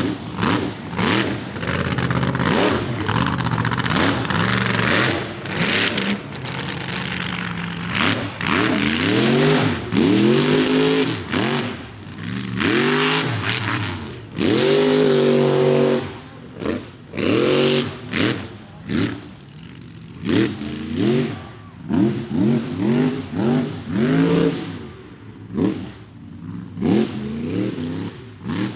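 Ford mega truck's engine revving hard again and again, its pitch climbing and dropping with each rev. In the second half the revs come as short, quick blips.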